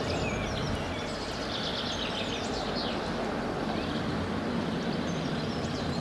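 Small birds chirping repeatedly over a steady low background rumble.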